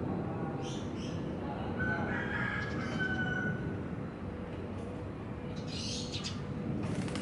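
A bird calling in two drawn-out pitched phrases, about two and three seconds in, over a steady low background rumble and faint hum; a few short, hissy high sounds follow near the end.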